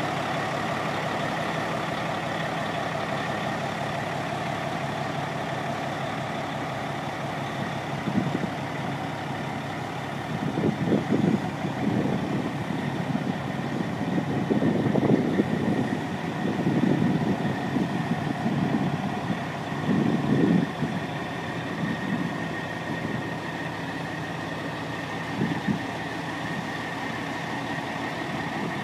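Cat diesel engine of a 1996 Ford B750 day-cab truck idling steadily, with a few irregular louder bursts partway through.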